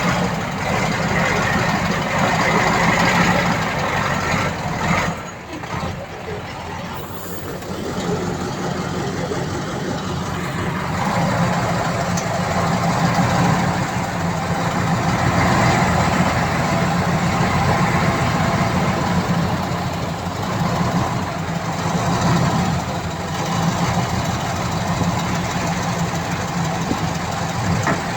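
Heavy diesel earthmoving machinery running steadily, with a brief drop in level about five seconds in.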